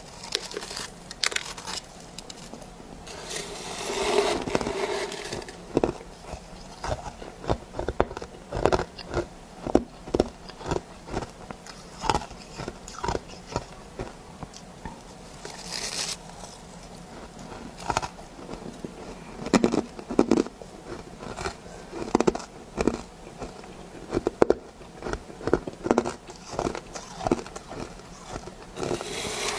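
Close-up biting and chewing of powdery soft ice (freezer frost): a long run of irregular soft crunches and crackles, with a longer noisy stretch about four seconds in.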